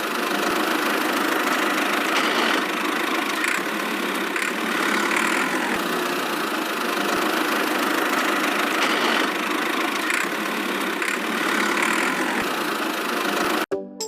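Small motor of a miniature DIY tractor running steadily under load, cutting off suddenly near the end.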